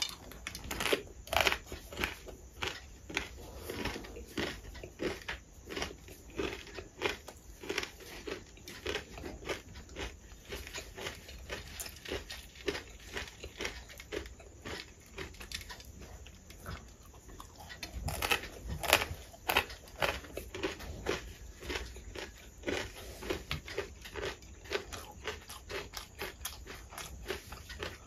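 A person chewing mouthfuls of rice with crisp fried potato sticks (jhuri aloo), a steady run of crunchy bites and chews about two a second.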